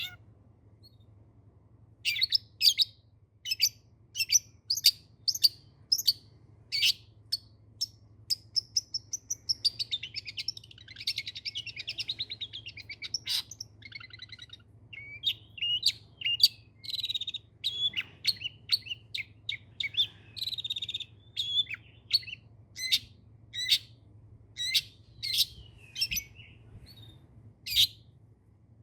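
Long-tailed shrike (cendet) singing continuously: loud, sharp, short calls repeated one to two times a second, broken by a long run of rapid chattering warble in the middle.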